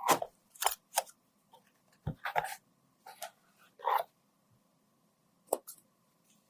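Irregular handling sounds from makeup repair work: a series of short clicks and taps with a couple of brief scrapes, the busiest in the first half and a last tap about five and a half seconds in.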